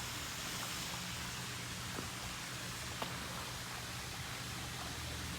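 Steady, even hiss of background noise with a faint tick about three seconds in.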